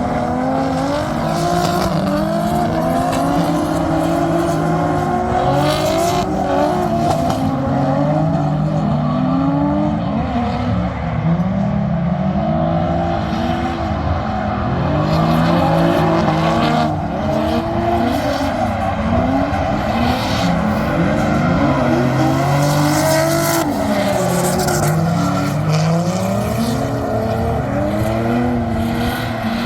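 Drift cars' engines revving up and down repeatedly, more than one car at once, with tyre squeal.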